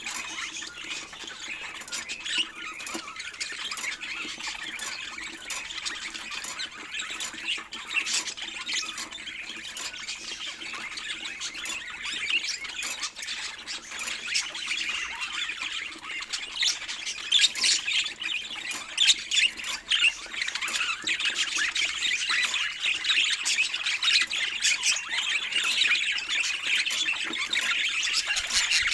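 A flock of budgerigars chattering and squawking without pause, many high chirps overlapping. It grows louder about two-thirds of the way in, over a faint steady low hum.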